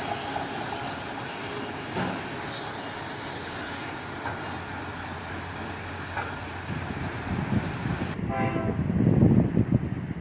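Freight train rolling past: a steady rumble with a few single clanks from the wheels and cars. About eight seconds in, a locomotive horn sounds briefly while a louder diesel rumble builds, then the sound cuts off suddenly.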